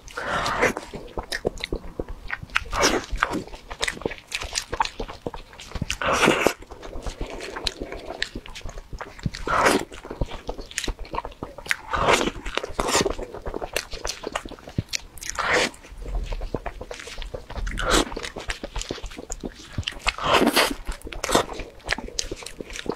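Close-miked biting and chewing of a soft yellow crepe roll cake (Chinese 'towel roll'), with a loud mouth sound about every two to three seconds and small clicks of chewing in between.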